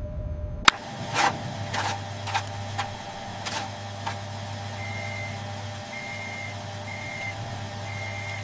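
Electronic console sounds of data being processed: a sharp click, then a run of irregular clicks over a steady low hum. These are followed by four short high beeps about a second apart.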